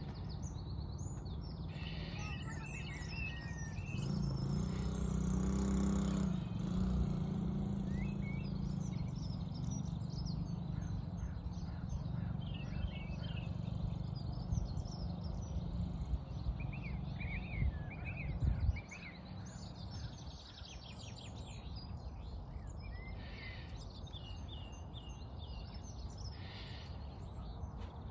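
Wild songbirds chirping and singing in short repeated phrases, over a steady low outdoor rumble that drops away about two-thirds of the way through.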